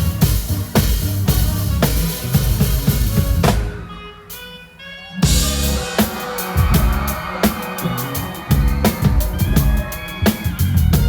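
Live band playing a pop song, with the drum kit up front: kick, snare and cymbals in a steady beat. About three and a half seconds in, the drums drop out for a second and a half, leaving held keyboard or guitar notes. The drums then come back in with a hit and a cymbal wash.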